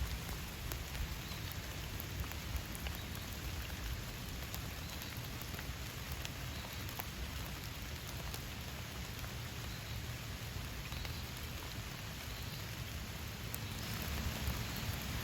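Steady rain falling, with a constant hiss and scattered individual drops ticking against a surface.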